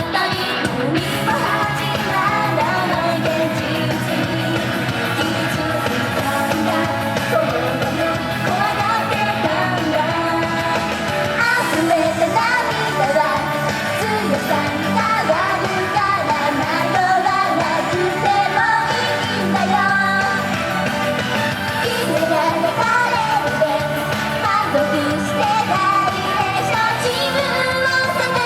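Female idol group singing live over a loud pop-rock backing track.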